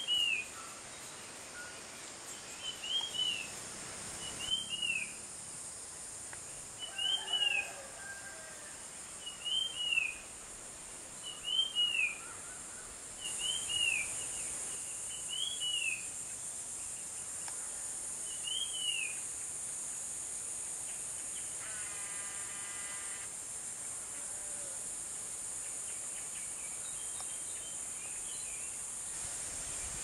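A songbird repeating a short, high, arched call note about every second and a half, falling silent about two-thirds of the way through. A steady high buzz of insects runs underneath and grows louder about 13 seconds in.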